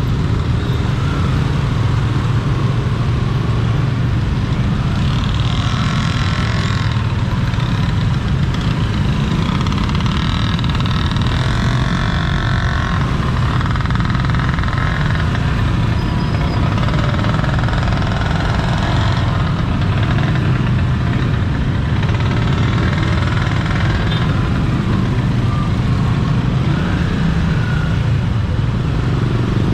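Road traffic noise heard while travelling: a steady engine and road rumble, with stretches of added noise from other vehicles in the middle.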